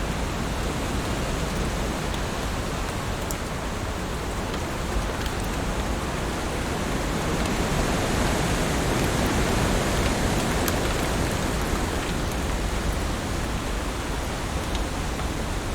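Heavy rain falling steadily, a dense even hiss with scattered sharp drop ticks, swelling a little louder about halfway through.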